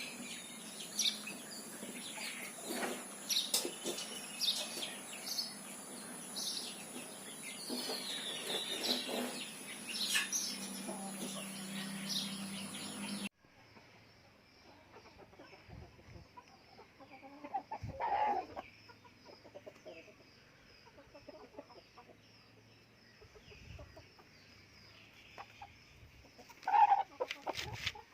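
Aseel chickens clucking, with other birds chirping and a steady high whine in the first half. About halfway through the sound cuts to a quieter scene with occasional clucks, the loudest near the end.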